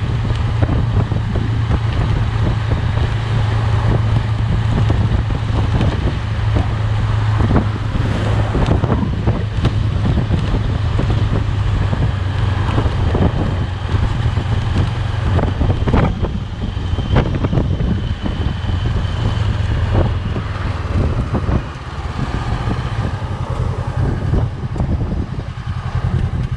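A road vehicle driving along, its engine and tyres making a steady low drone, with wind on the microphone and scattered short knocks throughout.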